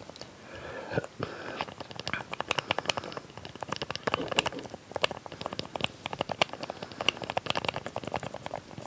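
A small lid tapped, clicked and scratched close to the microphone in quick, irregular taps for ASMR.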